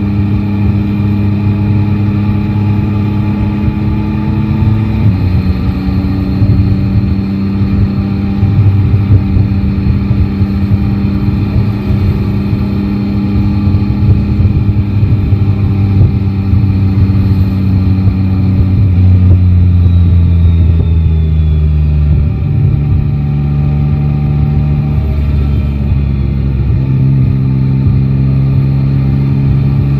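Yamaha Tracer 9 GT's three-cylinder engine running steadily under way, with wind and road noise. The engine note steps down about five seconds in, sinks gradually about two-thirds through as the bike slows, then picks up again near the end.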